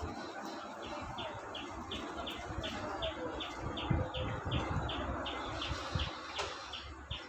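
Male prenjak (prinia) calling in a fast, even series of short, high chip notes, about three a second, the continuous 'ngacor' song used as a lure call. A low rumbling background runs underneath.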